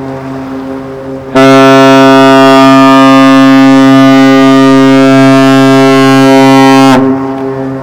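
The AIDAprima cruise ship's horn sounds one long, loud blast of about five and a half seconds, starting a little over a second in. It is a deep steady chord with many overtones, one of the three long blasts given on leaving port. Before and after the blast a fainter steady low drone carries on.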